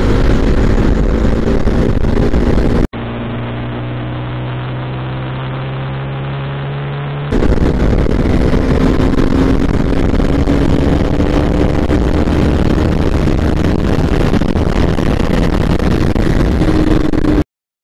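Bajaj Pulsar NS200 single-cylinder engine and exhaust while riding, the pitch rising slowly as it pulls. About three seconds in, it cuts to a quieter, steady engine note for about four seconds. It then returns to the louder riding sound, the pitch climbing gradually again, and cuts off near the end.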